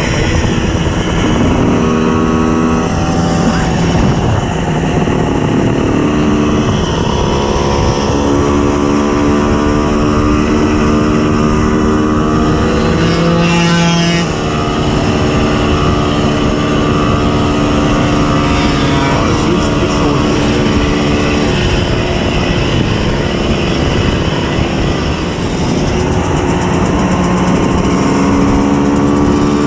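Tuned 90 cc reed-valve two-stroke Simson S51 moped engine under way, its revs climbing and dropping in steps through the gears.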